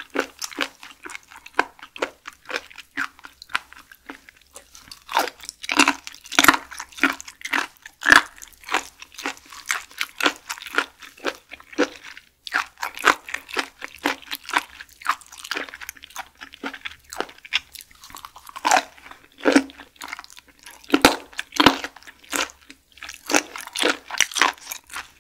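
Close-miked chewing of firm raw shellfish, a run of wet crunches and mouth clicks at an uneven pace, louder in a few clusters of bites.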